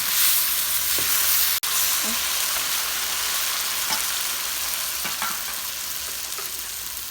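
Vegetables and tomato sauce sizzling in a hot pan as a stir-fry is stirred, with a few short scrapes of the utensil against the pan. The sizzle grows slowly quieter.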